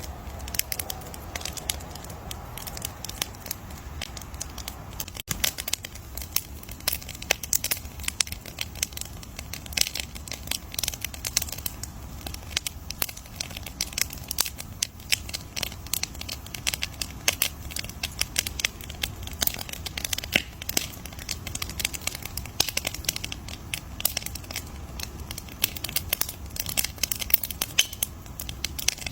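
Campfire burning with dense, irregular crackles and sharp pops of burning wood over a low, steady rumble of flames.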